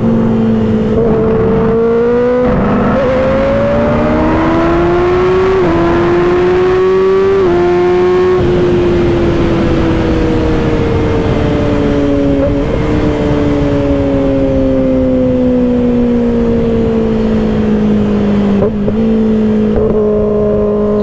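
2024 Kawasaki ZX-6R's 636 cc inline-four through an M4 exhaust pulling hard, its note climbing and dropping back at each upshift over the first eight seconds. After that the pitch falls slowly for about ten seconds as the bike eases off, with wind rushing over the rider's microphone.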